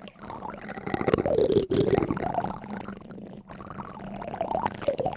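Liquid pouring and gurgling, its pitch rising and falling.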